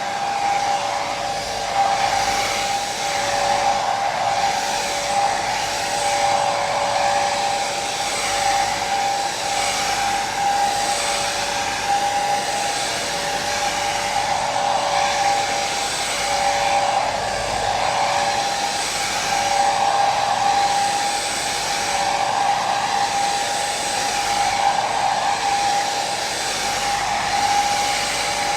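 Hair dryer running steadily: a continuous rush of air with a motor whine that swells and eases gently every couple of seconds.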